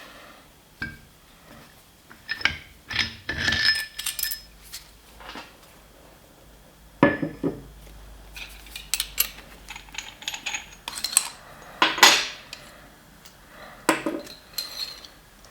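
Steel tooling parts (R8 adapter, collet and screw) being handled and taken apart: irregular metal clinks and knocks, a few ringing briefly.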